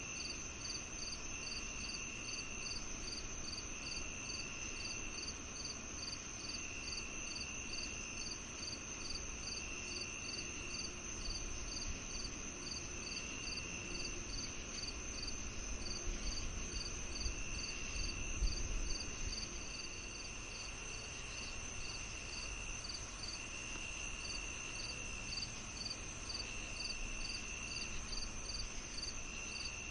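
Chorus of crickets and other insects at night: a steady high-pitched drone, a quick regular chirping, and a shorter trill that repeats every two to three seconds.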